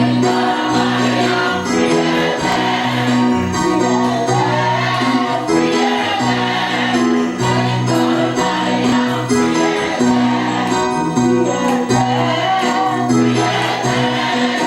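Gospel choir singing with keyboard accompaniment: sustained chords under wavering voices.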